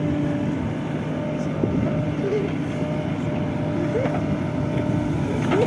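Heavy diesel engine running steadily at constant speed, with a few short chirp-like sounds over it.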